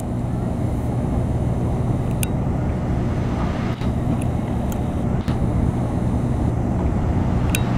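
Steady low motor-vehicle engine rumble with traffic noise, with a few faint sharp ticks about two, four and seven and a half seconds in.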